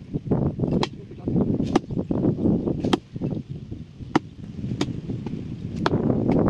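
Sharp knocks, irregularly spaced at roughly one a second, with rustling and scraping in between.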